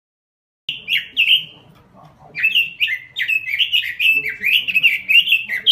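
Pekin robin (red-billed leiothrix) singing: after a brief dead silence at the start, two quick whistled phrases, a short pause, then a fast unbroken run of rich, down-slurred warbling notes from about two seconds in.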